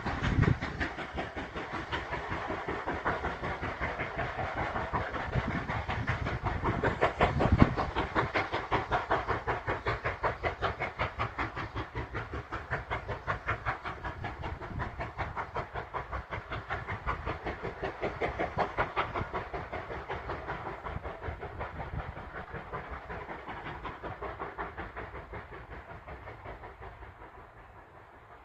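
GWR 4110, a Large Prairie 2-6-2 tank steam locomotive, working away from the station: a rapid, even run of exhaust beats with steam hiss and rail noise, getting fainter near the end as it pulls into the distance.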